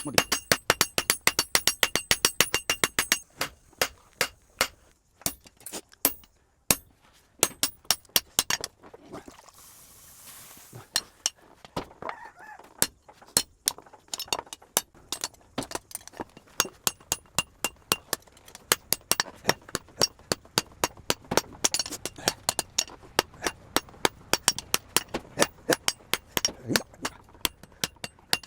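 Hammer blows on metal in a rapid series, several strikes a second with a ringing clink, pausing for a few seconds near the start before picking up again: hand-forging a knife blank from scrap steel.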